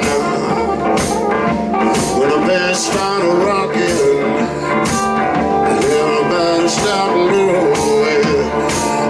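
Live blues-rock band playing: electric guitar over drums with a steady beat.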